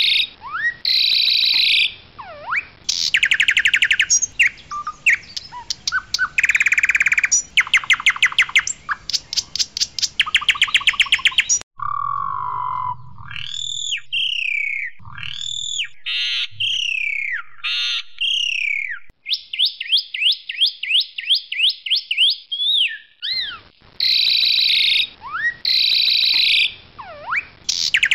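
Asian pied starling (jalak suren) singing a loud, varied song. It opens with harsh buzzy phrases and runs of rapid rattling notes, moves into whistled notes that rise and fall, then a fast rattling trill. The opening phrases come round again near the end.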